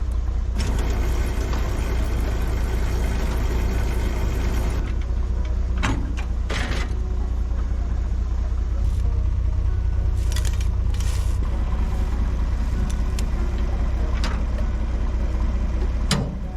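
Farm tractor engine running steadily with a deep hum, with a hiss for about four seconds near the start and several sharp clicks and knocks later on.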